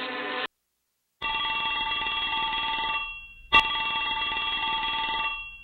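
Telephone ringing twice, each ring lasting about two seconds, with a sharp click as the second ring starts.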